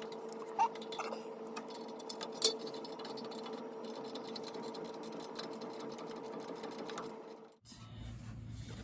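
Small electric motor running at one steady pitch, a whir with a few light clicks, that cuts off abruptly near the end.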